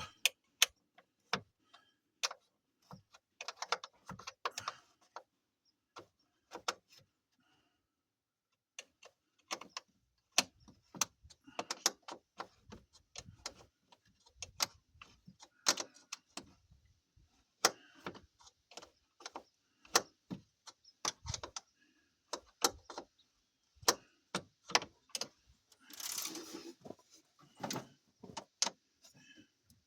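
Socket ratchet clicking in short, irregular runs while a bolt is worked loose, with hand tools clinking on metal and a brief scraping rattle near the end.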